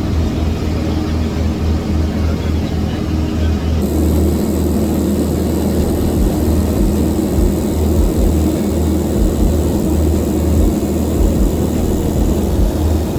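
Piper PA28 light aircraft's propeller engine droning steadily in flight. A faint high hiss joins about four seconds in.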